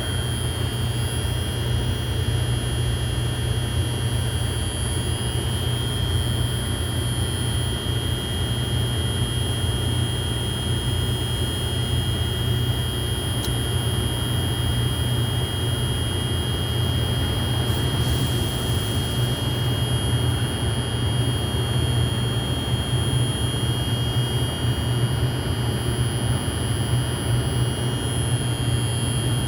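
R142 subway train running along the track, a steady rumble with a steady high tone over it. A brief hiss comes about eighteen seconds in.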